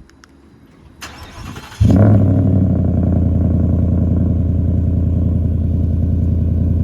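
2021 Ford F-150's 5.0 L V8 with a Magnaflow 19572 direct-fit replacement muffler and the resonator removed, started up. The starter cranks for under a second, the engine catches about two seconds in with a brief loud flare, then settles into a steady idle.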